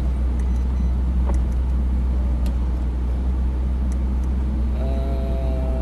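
Supercar's engine idling while the car stands still, a steady low rumble inside the cabin, with a few faint clicks. Near the end comes a brief steady tone.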